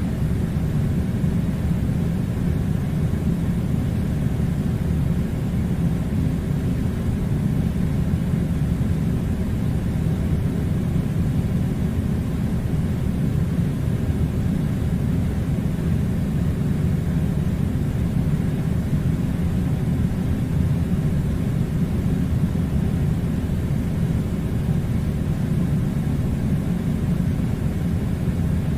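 Steady, even low rumbling noise that does not change.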